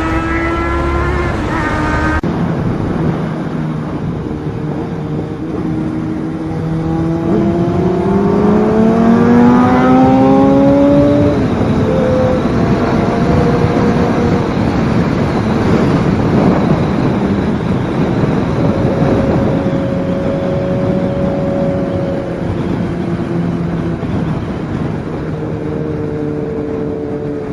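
Sportbike engine running on the road with steady wind and road noise; about a third of the way in the revs climb for a few seconds before dropping back.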